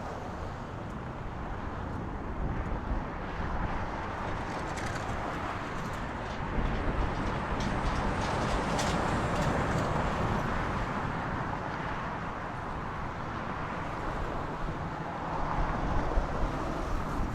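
Boeing 777-200ER's twin jet engines at takeoff thrust: a broad roar that swells to its loudest about halfway through, with some crackle, then slowly eases.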